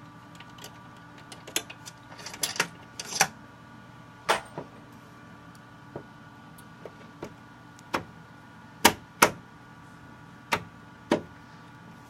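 Irregular clicks and knocks of a screwdriver and plastic case parts being worked while taking apart an original Xbox One console, the two loudest close together about nine seconds in, over a steady hum.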